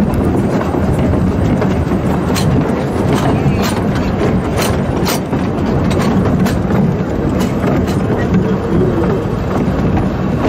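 A narrow-gauge train running along the line: a steady rumble with a run of sharp, irregular clicks through the middle.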